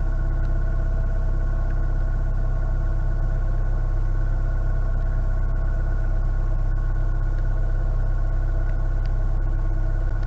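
Narrowboat's diesel engine running steadily while cruising, a constant deep rumble with a steady hum above it.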